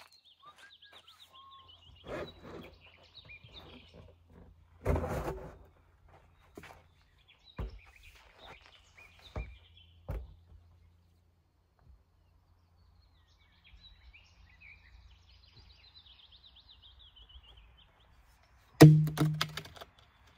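A songbird singing in repeated trilling phrases, with a few sharp knocks and thuds in between. A louder burst comes near the end.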